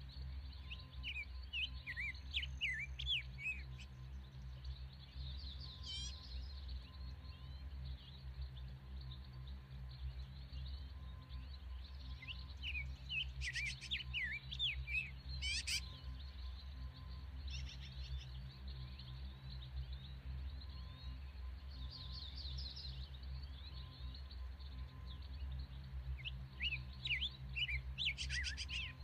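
Birds chirping in short spells of quick rising and falling notes, some trilled, near the start, around the middle and again near the end, over a steady low hum.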